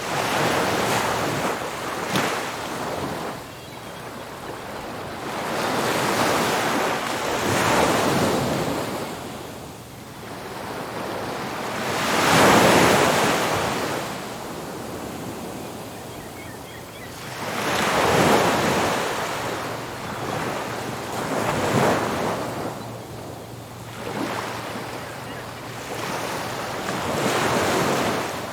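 Ocean surf breaking on a beach: waves crash and wash out in a slow rising-and-falling rhythm, one every few seconds, with the loudest break about halfway through.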